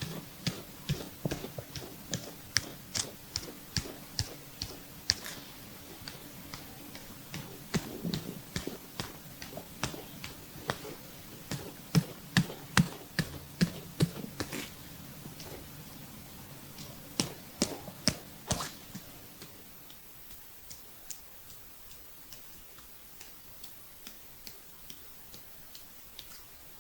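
Oiled hands working over a bare belly during a stomach massage, making a run of wet clicks and skin smacks, several a second. The loudest come in clusters around the middle, and they thin out and grow fainter near the end.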